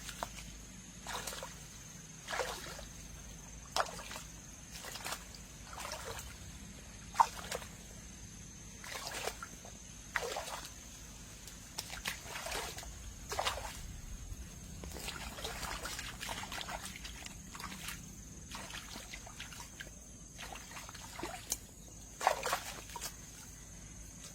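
Water splashing and sloshing in a regular series, about one splash every second or so, over a steady high hum.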